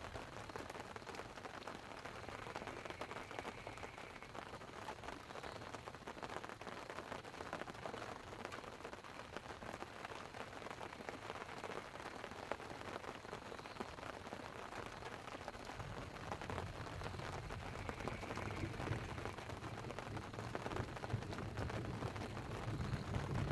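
Light rain pattering on a tent, with a steady wash of fine ticks, as thunder rolls in low and builds louder over the last third.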